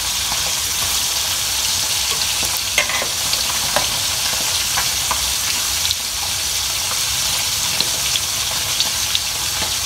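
Banana slices frying in hot oil in a wok: a steady sizzle with a few small pops.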